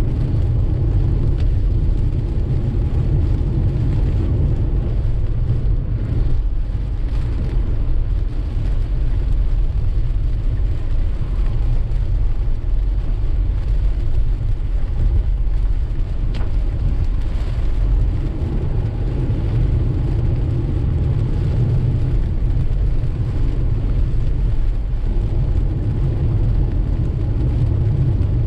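Steady low rumble of a car driving on a wet road in steady rain, with a constant hiss of rain and spray from the tyres.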